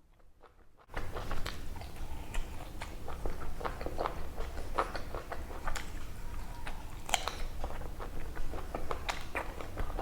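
Close-miked eating sounds: wet chewing, lip-smacking and biting clicks from someone eating chicken kosha with rice by hand, starting suddenly about a second in.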